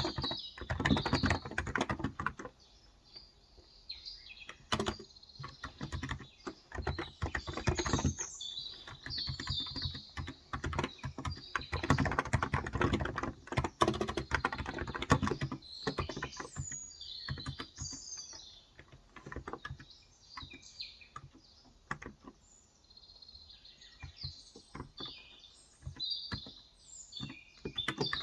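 Typing on a Cox Endeavour electro-capacitive (Topre-style) tenkeyless keyboard with 35 g switches, in bursts of fast keystrokes with short pauses between them. Small birds chirp in the background, more often in the second half.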